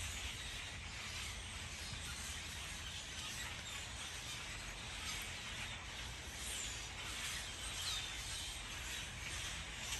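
Steady outdoor background hiss and low rumble, with a few faint, short bird chirps, mostly in the second half.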